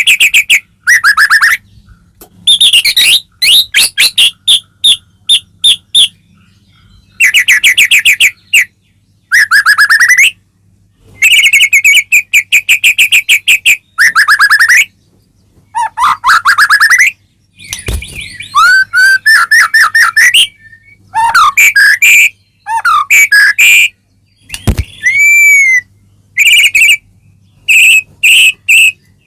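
White-rumped shama (murai batu) singing loudly: bursts of rapid repeated notes about a second long, separated by short pauses, turning into more varied chirps and slurred whistles about two-thirds of the way through.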